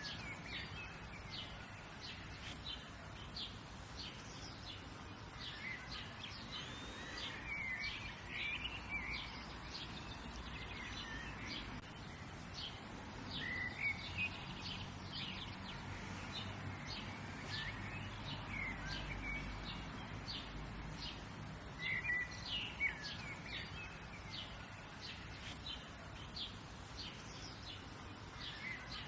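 Birds chirping and trilling, many short calls repeating, over a steady low rumble of background noise.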